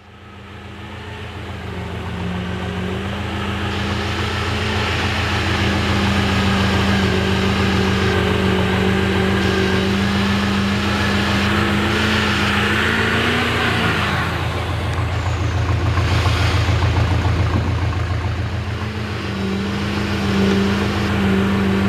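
Diesel engine of a Chevy mega mud truck running with a steady low pulsing throb, fading in over the first few seconds; its pitch rises briefly about 13 seconds in and drops back.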